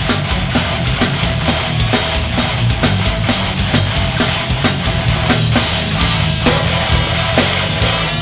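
Live heavy metal band playing an instrumental passage: distorted guitars and bass over a drum kit keeping a steady beat. The cymbals get brighter and busier about six seconds in.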